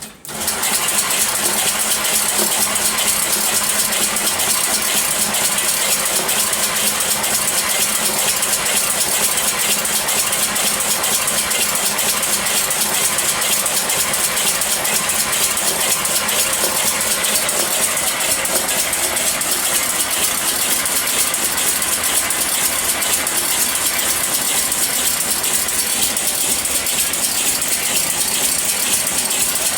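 Homemade Trammel Engine, a mechanical inertial propulsion machine driven through a speed controller off a single 12-volt battery, switched on at full speed just after the start and then running with a loud, dense, steady mechanical rattle from its spinning internals at about 100 RPM input.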